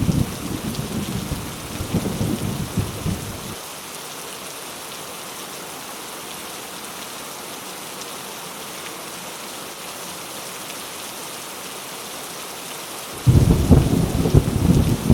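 Heavy rain falling steadily, with a deep rumble of thunder at the start that dies away after about three seconds. A second thunder rumble breaks in suddenly near the end.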